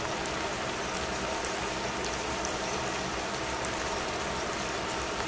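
Bean sprouts and vegetables sizzling in a hot stainless steel pan: a steady hiss with small scattered pops, over a faint steady hum.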